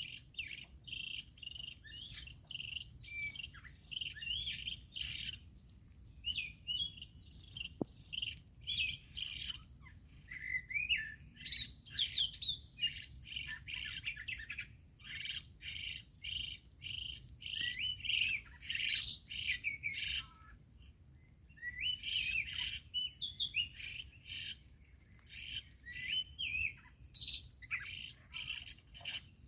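Songbirds chirping and singing in rapid, repeated phrases, with short pauses now and then, over a faint steady high whine.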